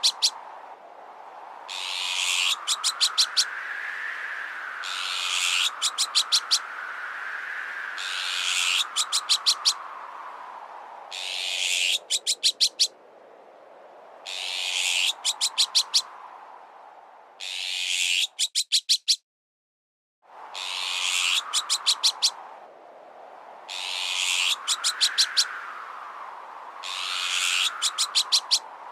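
Looped bird-repellent sound effect: a harsh, hissing call followed by a quick run of four to six sharp notes, repeated about every three seconds. Under it runs a whistling wind-like tone that slowly rises and falls. The sound cuts out for about a second just past the middle, then the loop starts again.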